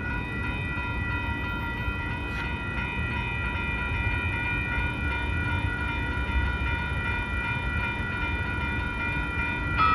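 Light rail train running by: a steady low rumble with a set of steady high-pitched tones ringing over it, and a short brighter tone near the end.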